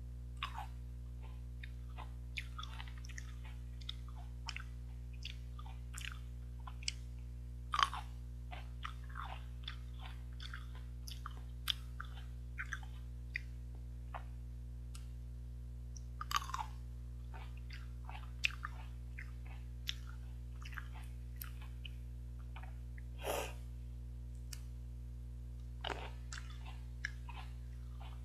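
Someone chewing and biting seedless green grapes, with irregular mouth clicks and smacks and a few louder bites, over a steady low hum.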